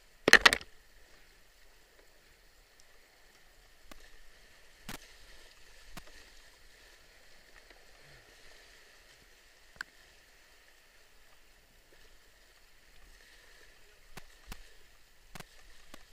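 Canoe running down whitewater: faint steady rushing of the river, with one loud sharp knock about half a second in and a few fainter knocks later.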